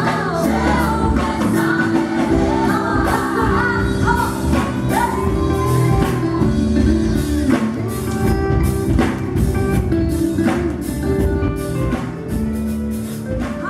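Contemporary gospel band music: singing over drum kit, bass and guitar, fading out near the end.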